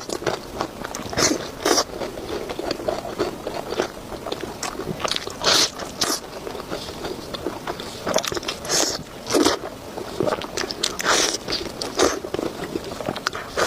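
A person biting and chewing crunchy food close to the microphone, with irregular sharp crunches coming every second or so.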